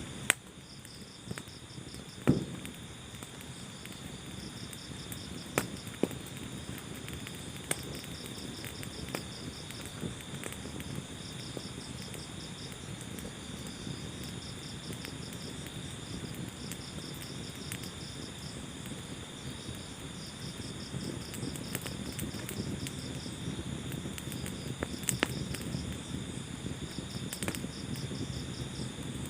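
Wood fire burning in a fireplace: a steady low rumble of flames with crackles and sharp pops here and there, the loudest pops near the start and about two seconds in. High insect-like chirping in repeated short trains runs alongside.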